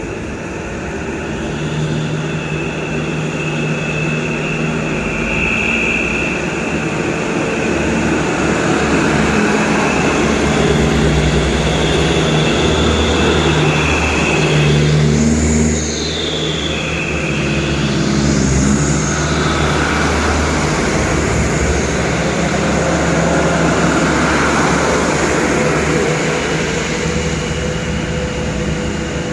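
Medium trucks' diesel engines running as a convoy passes, the engine note swelling and easing. A couple of short, high gliding sounds come about halfway through.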